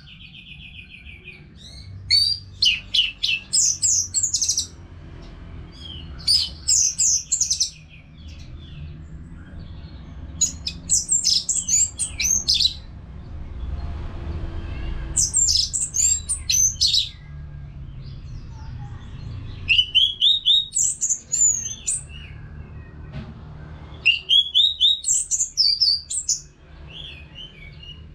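Orange-headed thrush singing: about seven high, rapid, warbling phrases of a couple of seconds each, separated by short pauses, over a faint low hum.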